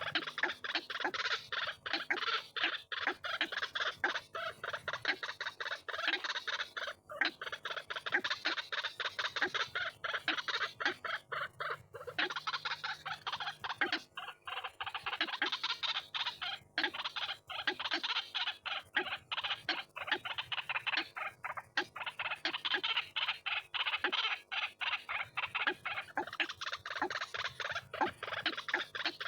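White-breasted waterhen (ruak-ruak) lure-call recording: a fast, unbroken run of repeated calling notes.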